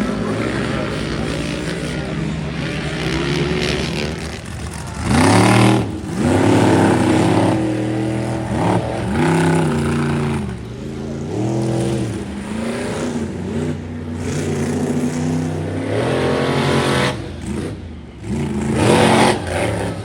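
Monster truck engine revving hard in repeated bursts, its deep note rising and falling in pitch again and again as the throttle is opened and closed.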